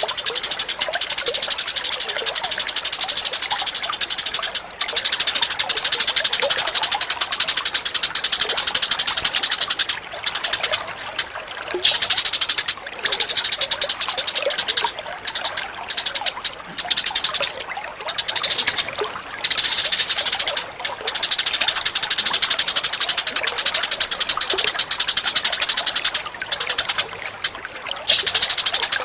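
Recorded bird calls: fast, dense, high-pitched chattering trills in long runs, broken by several short pauses through the middle stretch.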